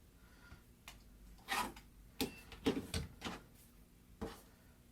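Rotary cutter and quilting ruler on a cutting mat: a handful of short, irregular knocks and scrapes as fabric strips are cut and the ruler is moved.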